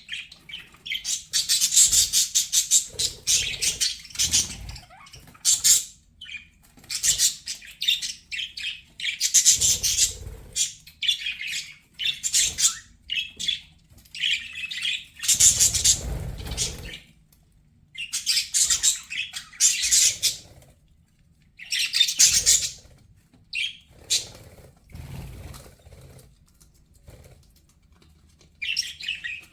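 Budgerigars chattering and warbling in bouts of rapid high chirps, each lasting a second or two with short pauses between. There is a dull low thump about halfway through, and the chatter thins out near the end.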